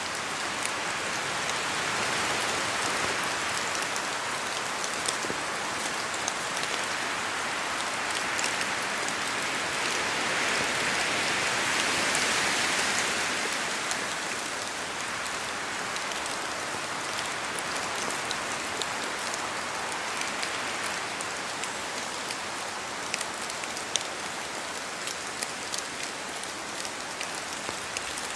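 Steady rain falling on forest trees, with distinct drops pattering throughout and a gusty swell that rises and fades in the first half.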